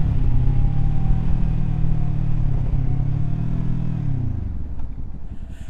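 Kawasaki Z400 parallel-twin engine running at a steady cruise, then its note falling and fading about four seconds in as the throttle is rolled off and the bike slows.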